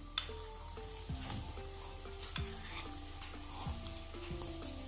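A spoon stirring and scraping in a pan of frying onion-spice masala as mashed potato is mixed in, with scattered light clicks of the spoon against the pan and a faint sizzle, over soft background music.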